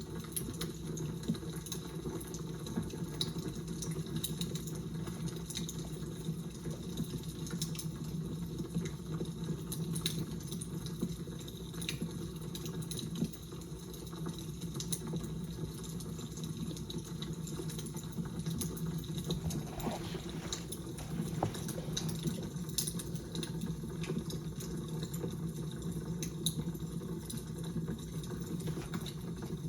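Fire crackling: a steady low rush with frequent small, sharp pops and snaps scattered irregularly throughout.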